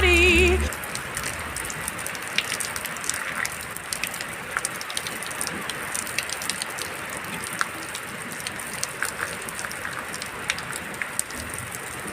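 Steady rain falling, a continuous patter with many small scattered drop ticks. A sung pop song cuts off just under a second in.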